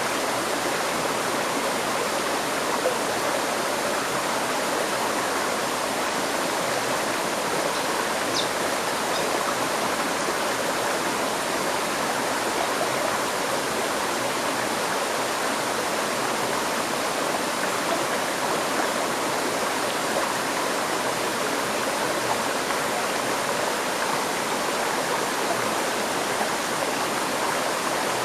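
River stream flowing, a steady even rush of water. A brief faint high chirp, like a bird, about eight seconds in.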